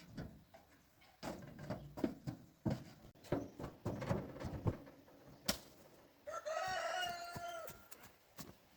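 A run of irregular knocks and crackles, then a rooster crowing once, a held call of about a second and a half near the end.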